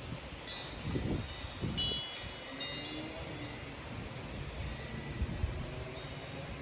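Wind chimes ringing irregularly, struck again and again as gusts of storm wind catch them, over a low wind rumble on the microphone.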